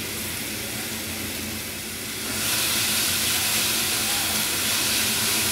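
Chopped tomato, onion, garlic and green chillies sizzling in hot oil in a frying pan: a steady hiss that grows louder about halfway through as the mixture is stirred.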